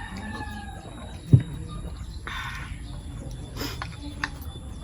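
The falling tail end of a rooster's crow, then a single sharp knock about a second and a half in and a brief rustle.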